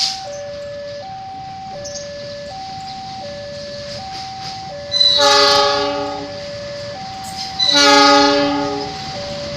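A level-crossing warning signal sounds an electronic two-note alarm, alternating high and low about once a second. A diesel locomotive's horn cuts in with two loud blasts, the first about five seconds in and the second about a second and a half after it ends, each fading over about a second. A short sharp knock comes right at the start.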